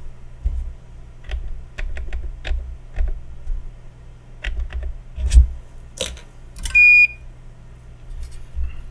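A string of sharp clicks from the soldering station's buttons being pressed to raise the iron's temperature, then one short high beep from the station about seven seconds in. A faint low hum runs underneath.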